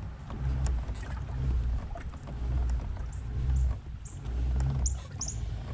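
Pedal drive of a Slayer Max kayak being pedalled, a low rhythmic rumble that swells about once a second with each pedal stroke. A few short, high falling chirps come in over it in the second half.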